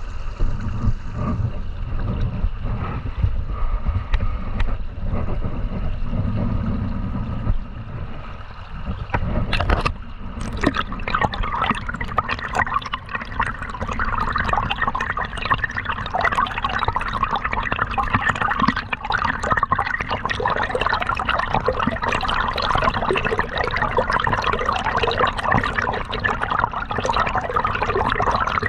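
Flowing river water. It starts as a low rumbling wash, then changes abruptly about ten seconds in to a brighter, steady gurgling and trickling.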